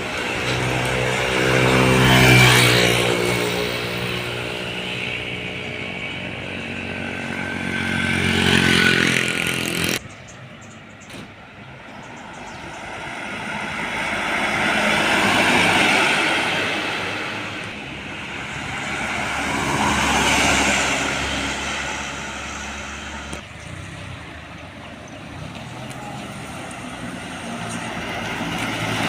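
Large road vehicles passing by one after another, each a swell of engine and tyre noise that rises and fades. The first, about two seconds in, has a deep diesel-like engine note that drops in pitch as it goes past.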